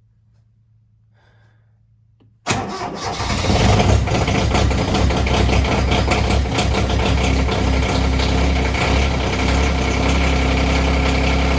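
Diesel tractor engine cold-starting at −8°F: it fires suddenly about two and a half seconds in, picks up speed for a moment, then settles into a steady idle.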